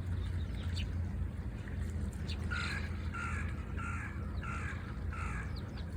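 A crow cawing five times in an even series, with a few short, high sparrow chirps and a steady low outdoor rumble.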